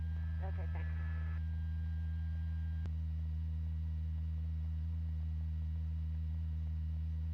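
Steady low electrical hum on the police radio feed between transmissions, with a faint trace of a voice in the first second or so.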